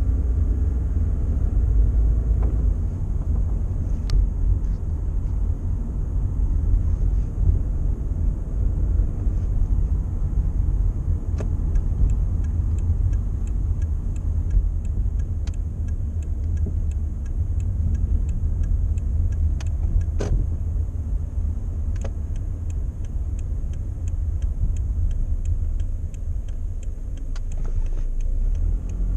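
Car being driven, with a steady low road and engine rumble and a few faint clicks. No brake squeal or grind stands out.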